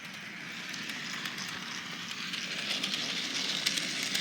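HO scale model train rolling along the track, its running noise growing steadily louder as it approaches, with a few light clicks near the end.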